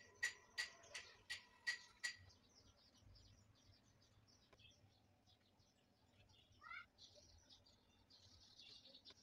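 Faint bird calls: a run of six sharp repeated notes, about three a second, in the first two seconds, then a single short warbling call later on, with faint high chirping in between.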